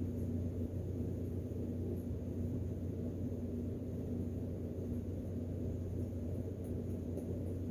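Steady low hum of room background noise, unchanging throughout.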